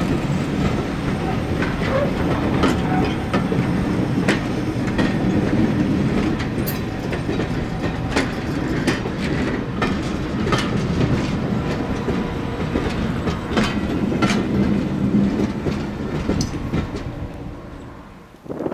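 Passenger coaches rolling past close by: a steady low rumble of steel wheels on rail, broken by irregular sharp clicks as the wheels cross rail joints. It fades away near the end as the last coach draws off.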